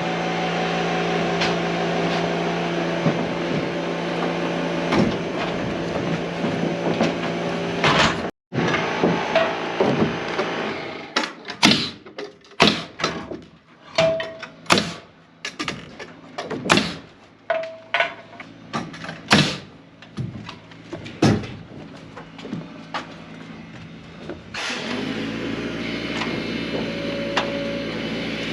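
A steady motor hum, then after a sudden break a long run of sharp, irregular strikes, about one or two a second, typical of nailing down roof sheathing, and then the steady motor hum again near the end.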